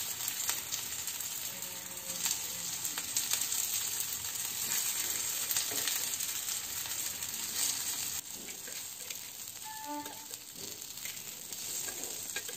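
Aloo tikki (mashed-potato patties) shallow-frying in hot oil on an iron tawa over a medium flame: a steady sizzle with fine crackles.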